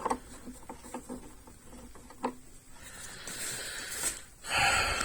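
A cloth wiping down the espresso machine's steam wand: small clicks and soft rubbing, with a louder rushing noise near the end. Wiping the wand right after steaming milk keeps the milk from drying on it.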